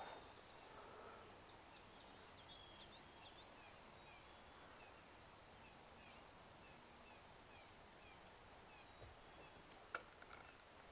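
Near silence with faint bird calls: a brief warbled phrase a couple of seconds in, then a run of short, evenly spaced downward chirps. A single faint click near the end.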